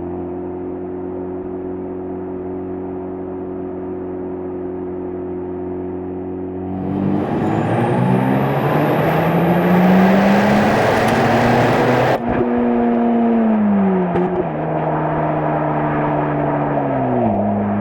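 Stock exhaust of a Mazda FD3S RX-7's twin-turbo 13B rotary engine, heard close to the muffler: a steady cruising note, then about seven seconds in it goes to full throttle and the pitch climbs for about five seconds. The note breaks off sharply, then the pitch falls away in steps as the throttle eases, dropping once more near the end.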